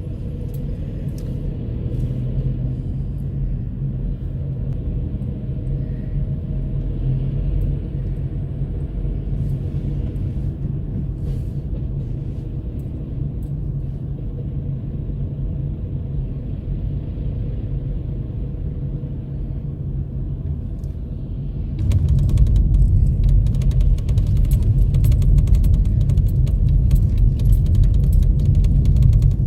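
Car on the move: a steady low rumble of engine and road noise, which grows louder about 22 seconds in with a dense rattling over it.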